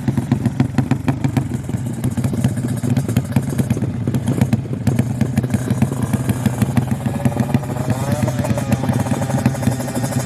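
Motorcycle engine idling low and steady, set up for a sleep-engine (slow-idle) contest, with a dense, even run of exhaust pulses. About eight seconds in, a faint whine briefly rises and falls.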